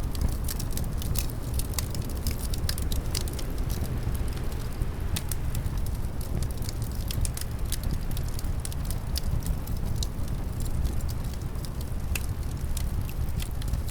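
Wood fire crackling in a fireplace, with frequent irregular sharp pops and snaps, over a steady low rumble of winter wind.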